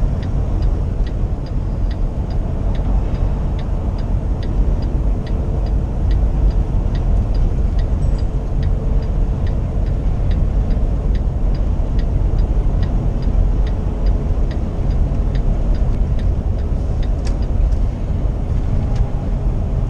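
Inside the cab of a 2015 Kenworth T680 on the move: a steady engine and road rumble, with an even ticking, like a turn signal, running through most of it and thinning out near the end.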